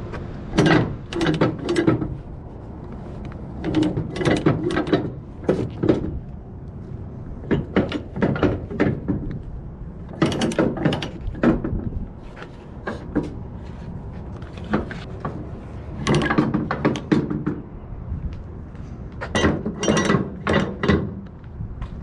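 Flatbed strap winches being turned by hand to take up slack in the cargo straps: runs of rapid ratchet clicking, about six bursts of a second or two each with short pauses between.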